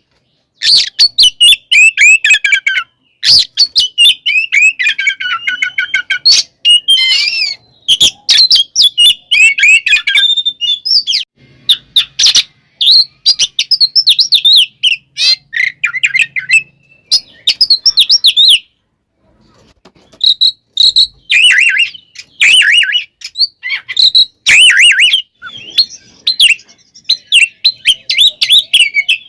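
Oriental magpie-robin singing loudly in fast, varied phrases of whistles and chattering notes with sharp clicks. This is the bird's excited fighting song, of the kind used to provoke rival magpie-robins. The song breaks off briefly twice, about a third and about two-thirds of the way through.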